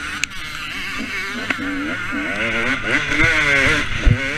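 Two-stroke KTM 250 SX motocross bike engine revving, its pitch rising and falling again and again as the throttle is opened and shut through the corners and straights. There are a few low thuds near the end.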